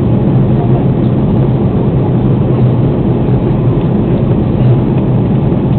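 Airbus A330 cabin noise in flight: a loud, steady rumble of the engines and the air rushing past, heard from inside the passenger cabin.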